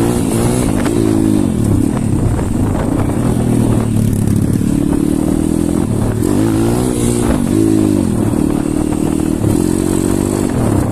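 Pit bike engine running while riding, its pitch rising and falling with the throttle about a second in and again around six to seven seconds in.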